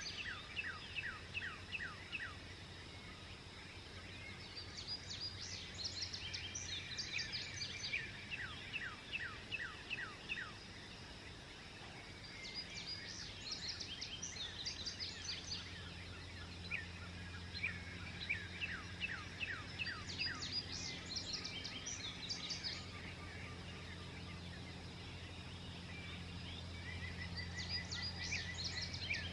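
Songbirds singing at dawn, repeating phrases of quick falling notes every few seconds. A steady low hum runs underneath.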